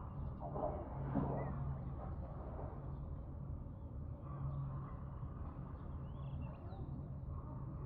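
A small farm tractor's engine running steadily with a low hum. A brief call is heard about a second in.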